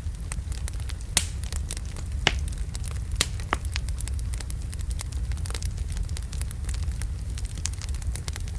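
Wood logs burning in a fireplace, crackling and popping over a steady low rumble, with a few sharper pops about one and two seconds in.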